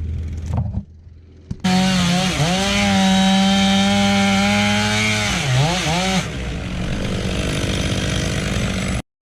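A chainsaw comes in suddenly about one and a half seconds in and runs at full throttle cutting wood. Its high steady pitch dips twice as the chain bogs under load in the cut. The sound then stops abruptly near the end.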